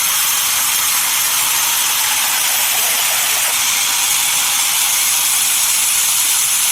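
Sawmill saw cutting through a desert redwood log: a loud, steady, high hiss that holds level without rising, falling or breaking.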